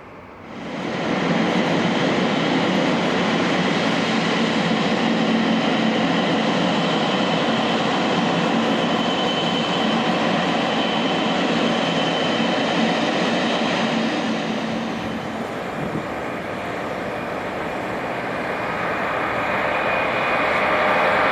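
Boeing 777 freighter's GE90 jet engines running at taxi power: a steady rush with a whine. It comes in abruptly about half a second in, eases slightly around fifteen seconds, and swells again near the end.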